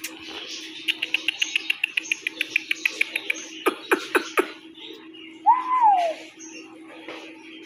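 Small birds chirping: a quick run of about eight high chirps a second, then three sharp downward-sliding calls. About two-thirds of the way through comes a single rising-and-falling whine, the loudest sound, all over a steady low hum.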